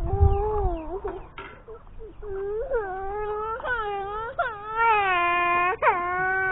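A baby crying in a run of drawn-out wails, several held steady for about a second, each rising sharply as it begins.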